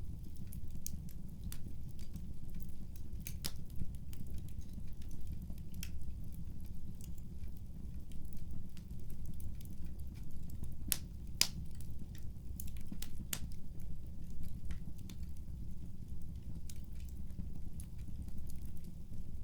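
Wood fire crackling in a fireplace: a steady low rumble under scattered small pops and snaps, with a few louder pops about three seconds in and twice near the middle.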